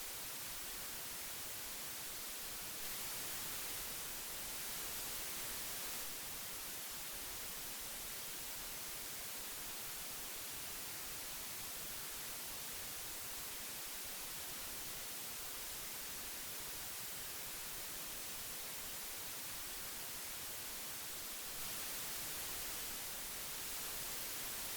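Steady hiss of old magnetic tape, brightest in the treble, swelling slightly louder for a few seconds twice.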